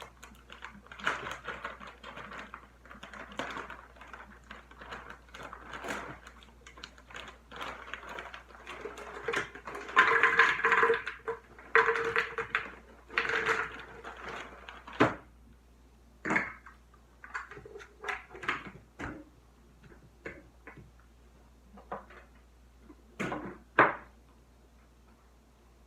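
Kitchen handling noises while a drink is prepared: scattered clicks and knocks of containers and utensils, busiest about ten to fourteen seconds in.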